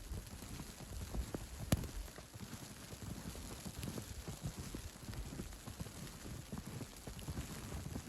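Footsteps crunching in snow at a walking pace, over a steady hiss of outdoor ambience, with one sharp click a little under two seconds in.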